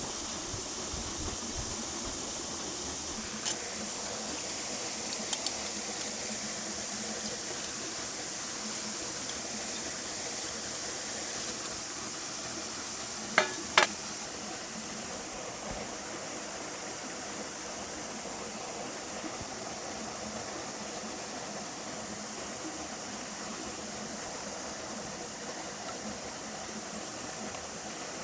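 Outdoor campfire cooking: a steady hiss runs throughout with a few light clicks, and two sharper knocks about halfway through are the loudest sounds.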